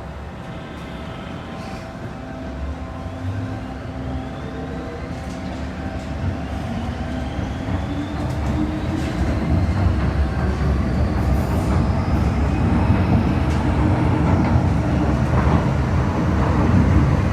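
MTR M-Train electric multiple unit pulling away from a station, its traction motors whining in a slowly rising pitch as it gathers speed, with running noise growing steadily louder.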